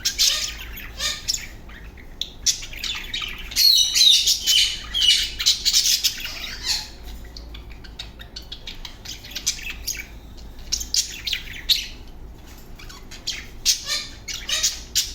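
A pair of budgerigars chattering with rapid chirps and squawks, busiest in the middle and again near the end.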